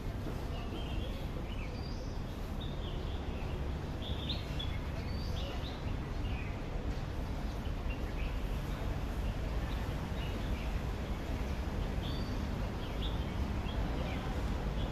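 Small birds chirping in short, scattered calls over a steady low background rumble of outdoor noise.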